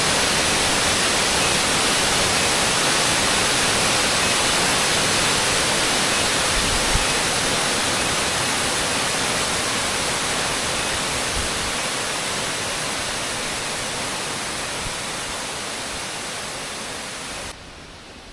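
Waterfall rushing, a steady dense hiss of falling water that slowly fades and then cuts off abruptly near the end.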